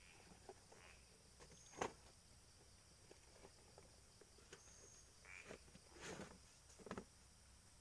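Faint outdoor night ambience by a pond, with a steady thin high-pitched background. A sharp click stands out about two seconds in, and three short noisy sounds follow near the end.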